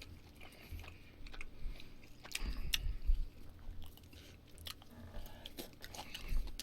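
Close-miked chewing of a mouthful of barbecued meat: wet mouth clicks and soft crunches with low thumps of the jaw, coming irregularly.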